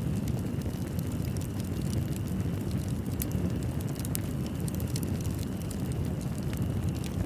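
Fireplace burning: a steady low rumble with scattered small crackles and pops.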